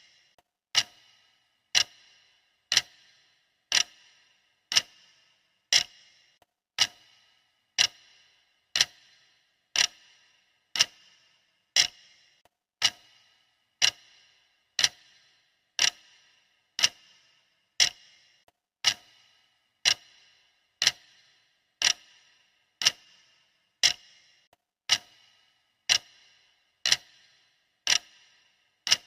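Clock ticking sound effect of a countdown timer: sharp, even ticks about once a second, each with a brief metallic ring-out.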